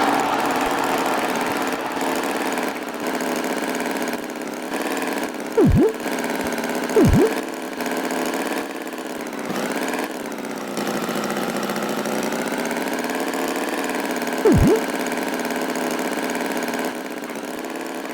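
Animated tractor's engine sound effect running steadily with a slight wavering. It is broken three times by short swooping cartoon effects that dip down and back up in pitch.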